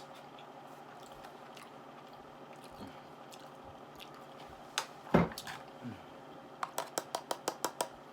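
Close-miked mouth sounds of a person eating chicken Alfredo pasta: quiet at first, then one loud mouth noise about five seconds in, followed near the end by a quick run of about ten sharp clicks from chewing.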